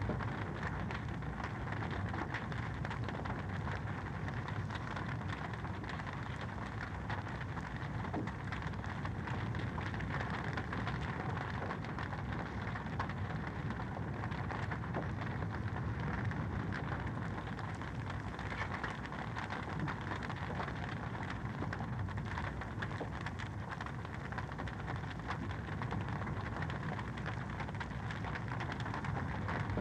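Wood fire crackling in a fireplace: a steady hiss with many small pops.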